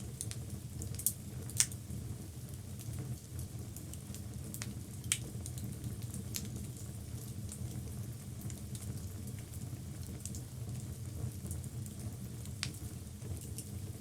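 Wood logs burning in a fireplace: a steady low rush of flame with scattered sharp crackles and pops, the loudest about a second and a half in and around five seconds in.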